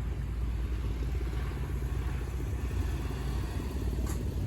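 A steady low rumble, as of a vehicle engine running nearby.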